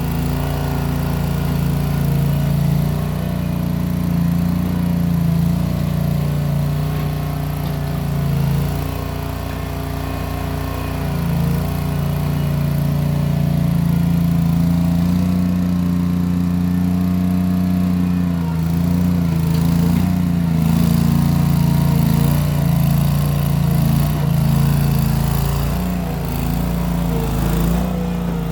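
Case 1816 skid steer's replacement engine running steadily through small round mufflers, its pitch and loudness rising and dipping slightly as the machine works dirt.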